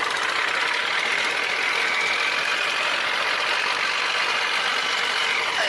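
Tugboat's diesel engine running steadily, a loud, even mechanical drone.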